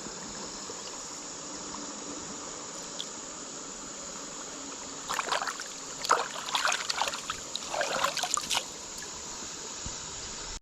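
Steady chirring of insects over running river water. From about five to eight and a half seconds in come irregular splashing and knocking noises as a small brown trout is handled at the kayak.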